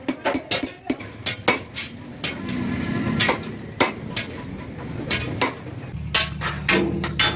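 Hammer blows on metal, sharp and irregular, about two strikes a second. About six seconds in, a low steady engine hum starts underneath.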